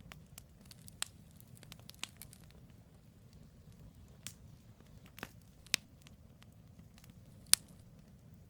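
Campfire of burning firewood logs crackling: irregular sharp pops over a low steady rumble, the loudest pop near the end.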